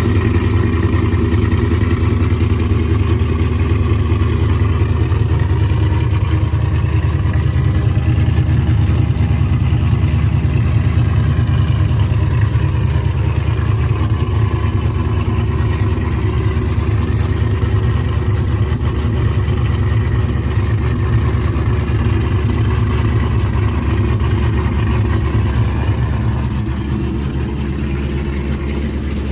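Steady low drone of a motor vehicle running, easing off slightly near the end.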